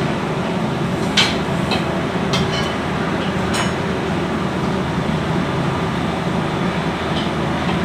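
A steady low machine hum with several light, sharp clicks in the first half, the first and loudest about a second in.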